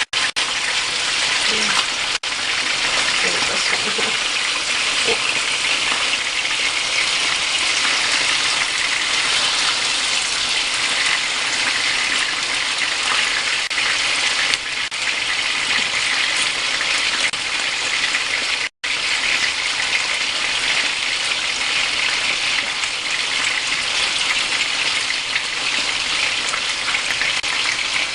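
Breaded pieces sizzling steadily in hot oil in a frying pan, a loud even hiss that breaks off for a split second about two-thirds of the way through.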